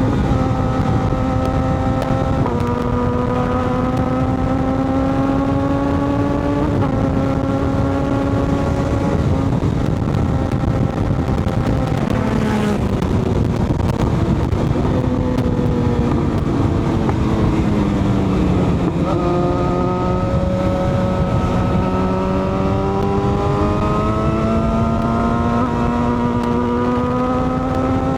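Motorcycle engine under way, its pitch climbing slowly in each gear and stepping down at upshifts about 2.5 and 7 seconds in. Its pitch falls as it slows through the middle, then it pulls up again through the gears, with steady wind and road noise throughout.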